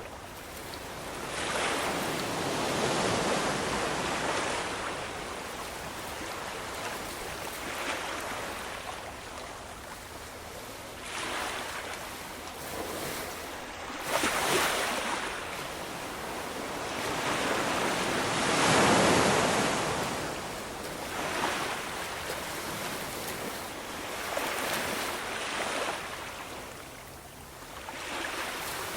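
Ocean waves washing onto the shore in slow surges. Each swell builds, peaks and recedes over a few seconds. The biggest come about three seconds in, around halfway, and again about two-thirds of the way through.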